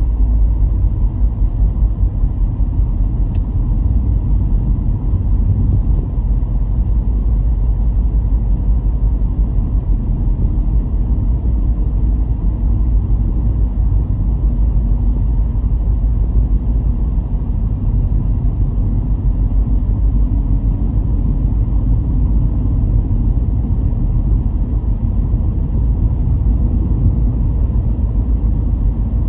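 Car driving along a road: a steady low rumble of tyre and engine noise that holds even throughout.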